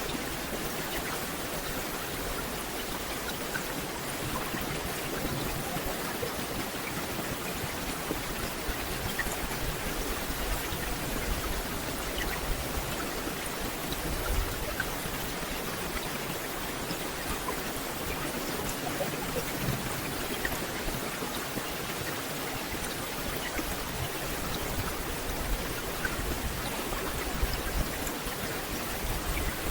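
Steady rain falling on a dense forest canopy, an even hiss dotted with the ticks of single drops.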